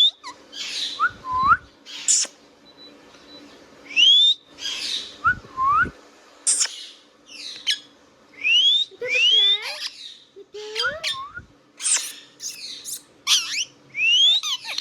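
Indian ringneck parrot calling: repeated rising whistles that sweep up to a high note, mixed with short hooked chirps and brief harsh squawks, coming every second or two.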